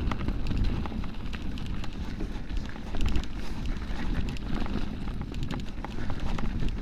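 Rocky Mountain Altitude mountain bike descending a dry, rocky trail: a steady rumble of wind on the microphone and tyres on the ground, with frequent clicks and knocks of the tyres and bike rattling over rocks.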